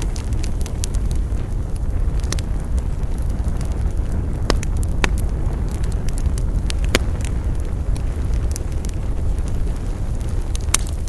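Wood fire burning: a steady low rumble with scattered sharp crackles and pops, a few of them louder than the rest.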